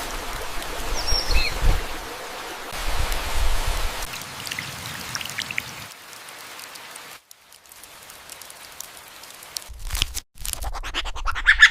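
Forest ambience made of a steady hiss, weakly suggestive of rain, with a few short high bird chirps about a second in. It changes abruptly several times, dropping out briefly around the middle, and ends in a quick run of clicks.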